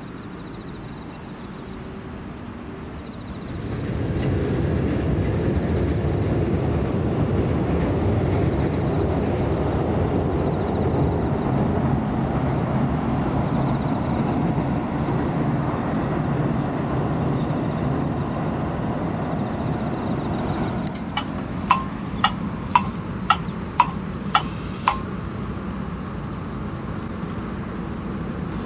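A train running across a steel truss railway bridge: a steady low rumble that swells in about three seconds in and eases off after about twenty seconds. Near the end there is a quick series of about seven sharp clicks.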